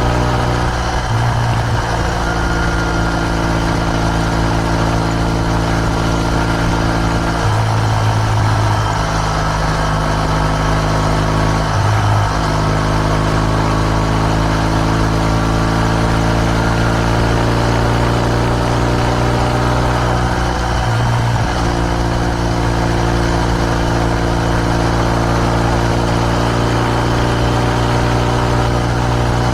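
Kawasaki W650 parallel-twin engine running through an r's gear Wyvern Classic aftermarket muffler, at a steady engine speed. The exhaust note breaks briefly and steps to a new pitch about four times.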